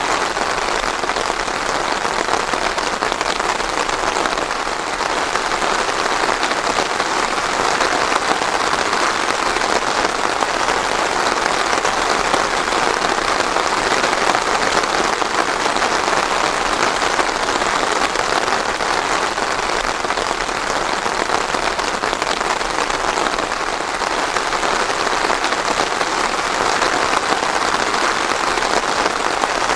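Steady, even rain falling on a surface, with no thunder.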